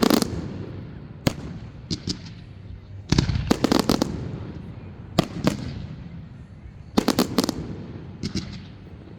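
Aerial firework shells bursting: sharp bangs, some single and some in quick clusters of several, coming every second or two, each followed by a low rumbling echo.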